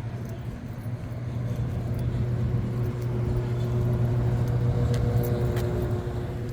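Steady low machine hum with two fainter, higher steady tones above it, growing louder over the first few seconds and easing slightly near the end.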